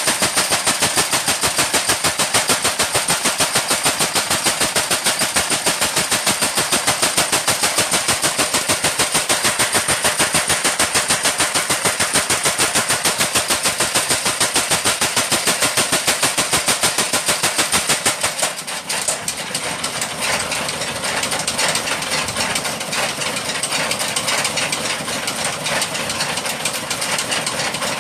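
Blacksmith's workshop machine running with a steady, rapid knocking, about five beats a second. About two-thirds of the way through, the even knocking stops and gives way to a denser, uneven mechanical clatter.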